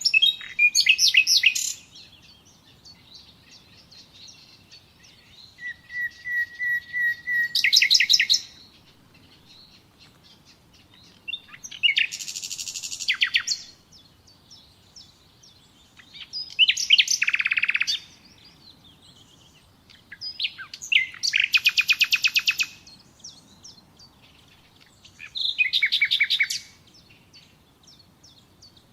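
Common nightingale singing: six loud, varied phrases of rapid trills and whistles, each a second and a half to three seconds long, with pauses of about three seconds between them. One phrase, about six seconds in, starts with a series of slow repeated notes that swell in loudness and break into a fast trill.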